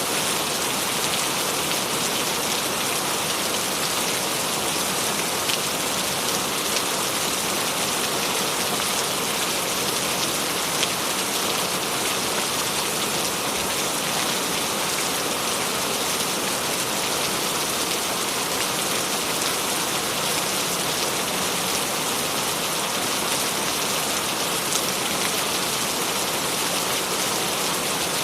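Steady rain falling on a surface, an even dense hiss with small scattered drop ticks.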